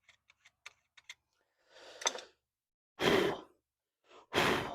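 Hand cleaning of grit from the ABS sensor mounting area: a run of small light clicks and scrapes, then a soft hiss and two short, loud rushing noises about a second and a half apart.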